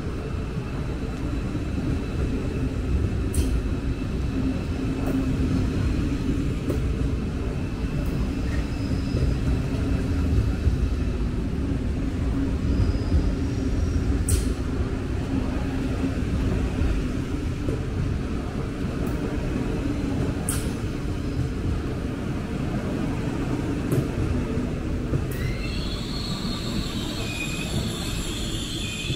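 A train running with a steady low rumble and a sharp click now and then. Near the end, high-pitched squealing from the wheels sets in.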